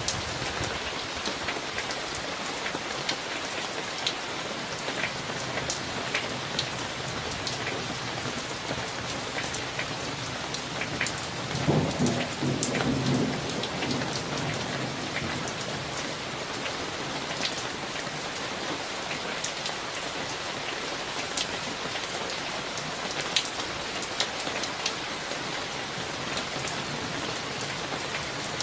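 Steady summer rain falling, with sharp ticks of individual drops hitting a surface. A short roll of thunder rumbles through about twelve seconds in.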